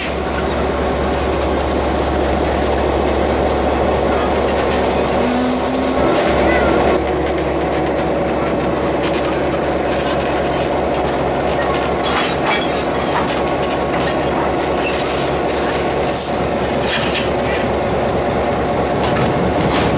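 Railway carriages rolling along the track: a steady rumble with a brief high squeal about five seconds in and repeated clicks from the wheels and rails, more of them in the second half.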